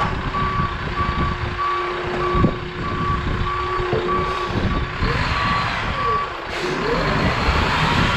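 Bobcat 753 skid steer reversing, its backup alarm beeping about twice a second over the running diesel engine and hydraulics. The beeping stops about six seconds in as the engine note keeps rising and falling.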